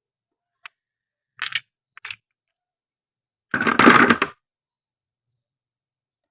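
Toy fruit being handled and cut: a light click, two short scrapes, then a louder crackling tear lasting under a second about three and a half seconds in.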